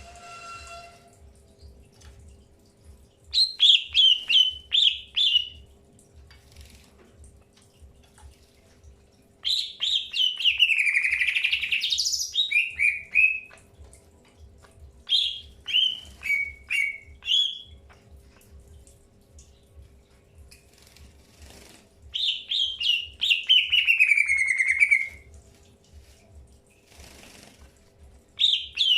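Green leafbird (cucak hijau) calling in five bouts of rapid chirped notes, some phrases sliding down in pitch, with pauses of a few seconds between bouts. The calls come while the birds are being introduced for pairing.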